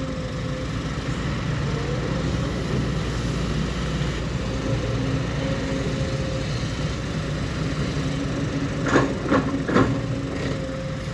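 Diesel engines of an excavator and a dump truck running steadily during loading. A few sharp knocks come about nine seconds in.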